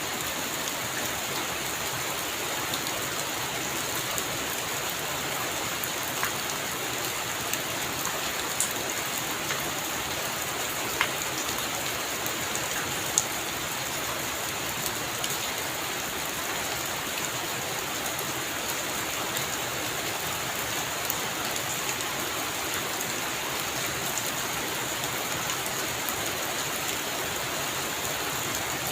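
Heavy rain falling on a roof: a steady hiss with scattered sharp drop ticks, the loudest about eleven and thirteen seconds in.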